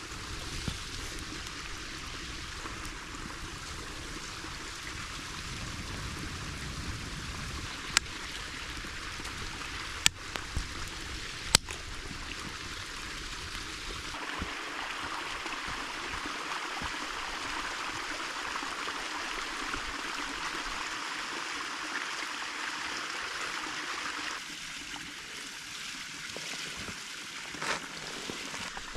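A creek running steadily, with three sharp snaps or cracks in the first half.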